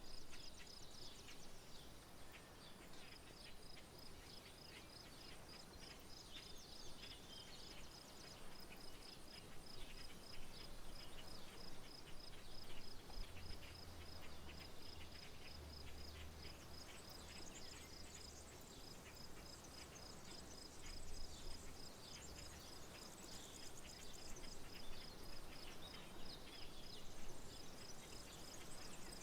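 Rural outdoor ambience: an insect chirping steadily in a high, evenly pulsed rhythm, with scattered bird chirps. A faint low hum comes in for several seconds midway.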